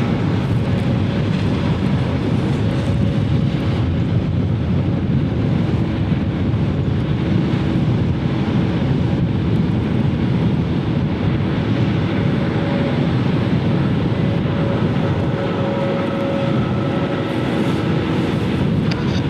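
Steady low rumble of airliner jet engines at an airport, with a faint steady whine running through it.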